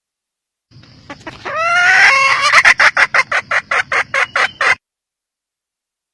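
Junglefowl hen cackling: a few rising, drawn-out notes build into a fast run of sharp clucks, about four a second, that stops abruptly.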